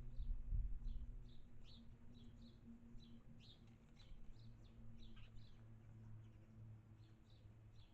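Small birds chirping at a feeder: a run of short, high, mostly falling chirps, a few each second, over a faint steady low hum.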